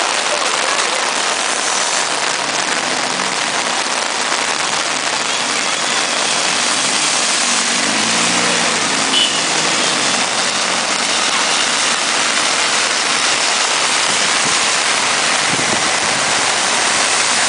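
Heavy rain falling in a steady, dense hiss, with a low engine-like hum rising and falling briefly about eight seconds in.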